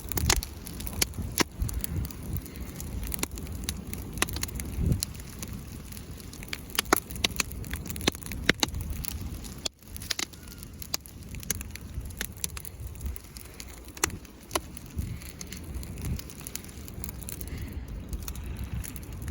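Bonfire crackling, with frequent sharp, irregular pops over a low rumble.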